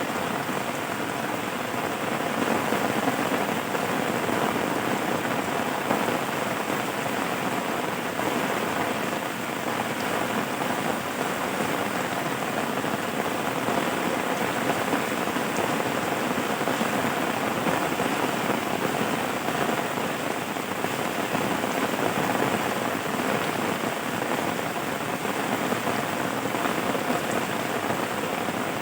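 Steady rain falling: an even, unbroken hiss of many drops, with no change in level.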